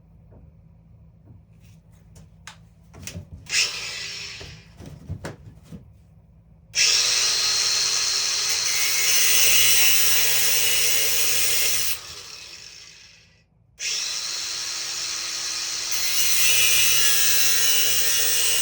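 Handheld power tool cutting material held in a vise: two runs of about five seconds each, with a steady motor hum under a loud hiss. Before them come a few clicks and knocks from handling the work.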